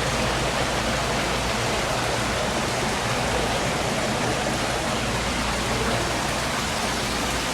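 Steady, even rushing noise of falling water or rain, with no breaks.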